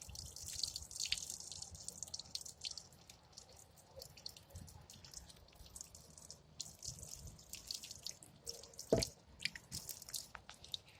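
Boiling water poured over a dent, trickling off and falling in faint, scattered drips, with one sharper knock about nine seconds in.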